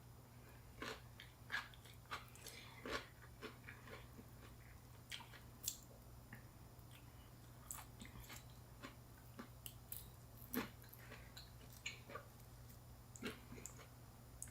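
Close-up eating of fresh spring rolls, rice paper wrapped round vegetables and shrimp: irregular biting, chewing and small crunches, with scattered mouth clicks, over a faint steady low hum.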